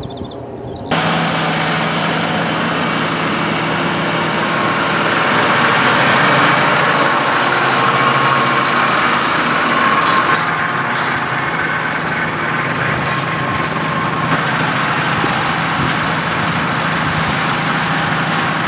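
Tractor engine running steadily and loud, a constant low hum under a broad mechanical noise. It comes in abruptly about a second in.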